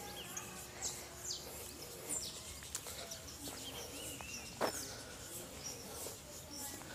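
Outdoor ambience with small birds giving scattered short, high chirps and calls throughout, and a single sharp knock about two-thirds of the way through.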